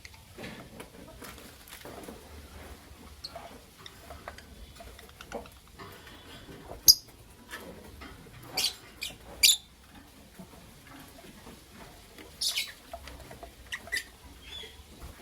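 Lovebirds giving a handful of short, sharp chirps spread through, the loudest about seven seconds in, over faint scratching and shuffling.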